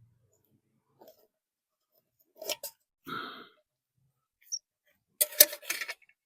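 Sporadic handling noises: a few clicks and a crackly rustle, with the loudest burst of crackling clicks near the end.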